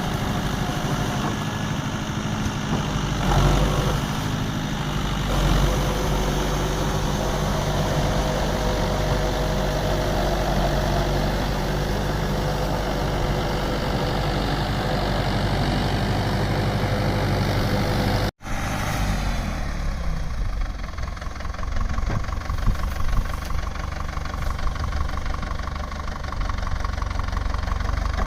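Mahindra 595 Turbo tractor's diesel engine running steadily. About two-thirds of the way through there is an abrupt cut, after which the engine sound is lower and more uneven.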